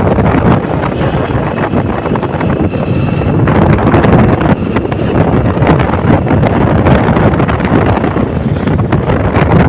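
Wind buffeting the microphone while riding along a street, with the running noise of the vehicle underneath.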